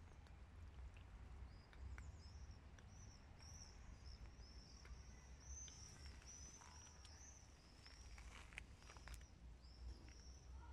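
Quiet garden sound: a small songbird repeating short high chirps, about two or three a second, over a low steady rumble, with a few faint clicks in the middle.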